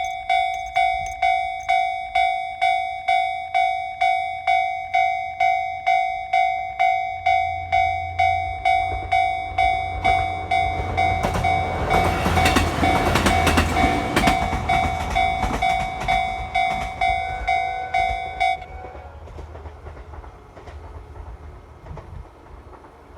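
Level crossing warning bell ringing about two and a half times a second while a JR Hokkaido H100 series diesel-electric railcar passes over the crossing. The railcar's engine and wheel noise is loudest a little past the middle. The bell stops suddenly about three quarters of the way through, leaving the railcar fading away.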